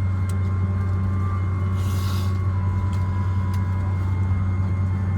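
Steady low hum inside a Boeing 767-300ER cabin, with a brief burst of hiss about two seconds in.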